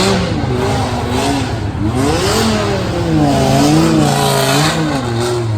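Drift car's engine revving hard, its pitch swinging up and down several times as the throttle is worked, over a steady hiss of spinning, smoking tyres.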